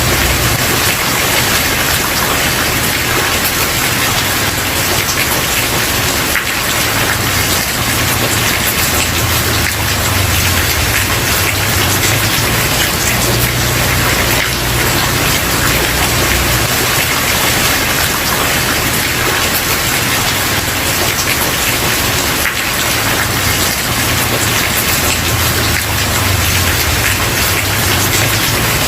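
Steady rain falling on a wooden porch, an even hiss of drops with a low rumble underneath.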